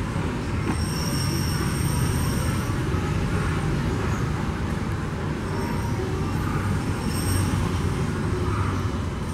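Disneyland Railroad train rolling away along the track: a steady rumble of wheels on rails, with thin high squealing tones coming and going several times.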